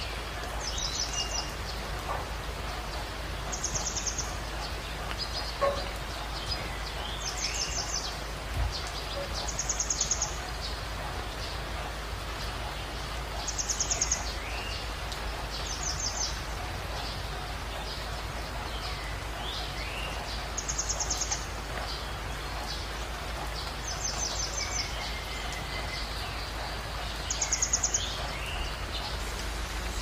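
Wild birds calling over a steady hiss. A high, rapid trill repeats about every two to four seconds, between shorter call notes that slide in pitch.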